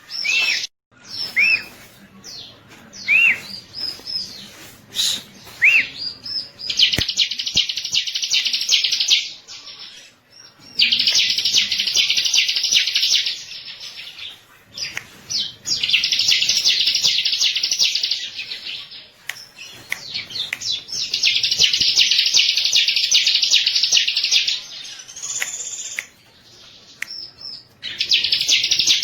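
Ciblek (prinia) song: repeated bouts of a rapid, harsh trill, each about two to three seconds long, with short single rising-and-falling whistled notes in the gaps between them.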